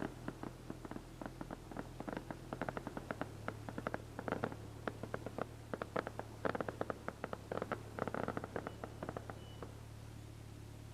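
Fireworks popping and crackling in quick irregular volleys, over the steady hum of a motorcycle engine. The pops thin out near the end.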